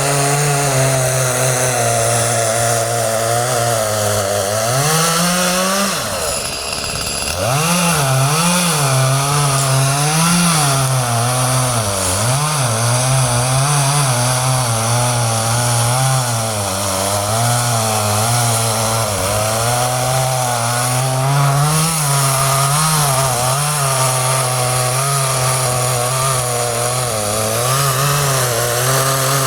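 Chainsaw running at high revs while cutting wood, its pitch wavering up and down as the load changes. About six seconds in the engine drops briefly toward idle, then revs back up into the cut.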